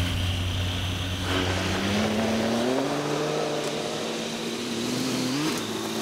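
Motorcycle engine running and accelerating, its pitch climbing after about a second and again near the end.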